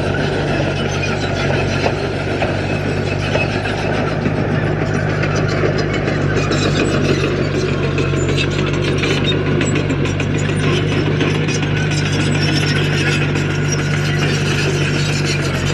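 Diesel engine of a heavy earthmoving machine running steadily, with a dense crackling rattle over it throughout.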